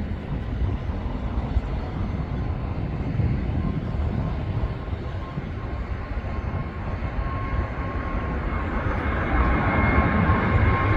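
Jet airliner engines rumbling with a faint steady whine, growing gradually louder as a departing jet approaches on its takeoff run.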